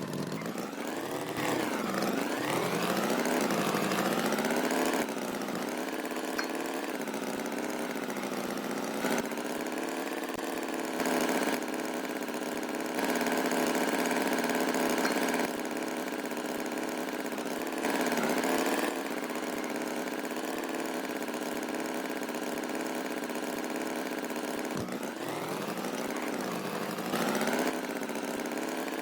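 Engine running steadily, its pitch rising and falling a few seconds in and again near the end, with several short louder stretches.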